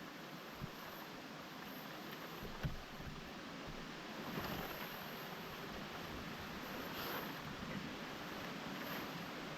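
Steady rushing noise, like wind through the forest, swelling slightly midway, with two faint knocks about half a second and nearly three seconds in.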